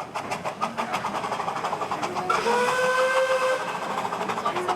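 Narrow-gauge saddle-tank steam locomotives working hard up a steep, wet gradient, their exhaust beating rapidly, with a steam whistle sounding for about a second just past the middle.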